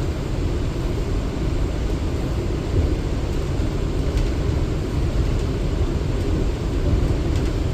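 R179 subway train running between stations, heard from inside the car: a steady rumble of wheels on rail with a hiss of running noise.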